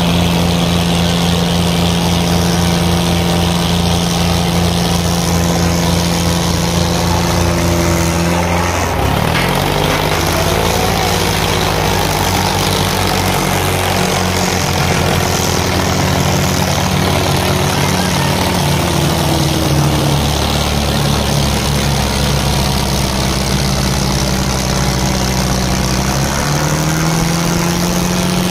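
Diesel tractor engines running hard in a tractor pulling contest. Their pitch dips and recovers about nine seconds in and climbs again near the end.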